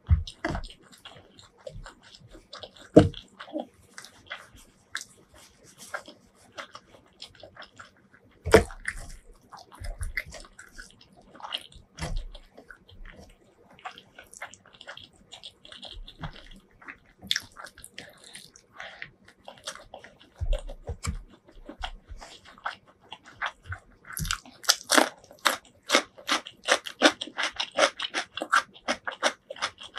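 Close-miked chewing of a mouthful of chicken curry and rice eaten by hand: wet mouth clicks and smacks with a few sharper bites. From about 24 seconds in the chewing turns into a dense run of quick crisp crunches.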